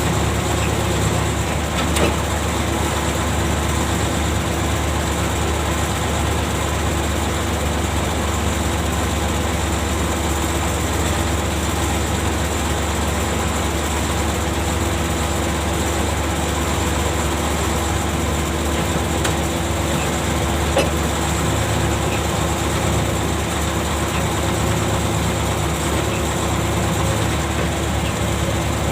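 Ship's machinery running steadily with a constant low hum and drone, likely the deck gear used to raise the anchor. A couple of brief metallic knocks sound, one about two seconds in and one about two-thirds of the way through.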